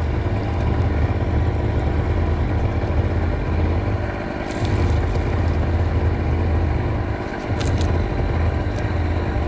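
A small engine running steadily at one constant speed, its low hum easing off briefly twice. A few faint clicks are heard over it, about halfway and near the end.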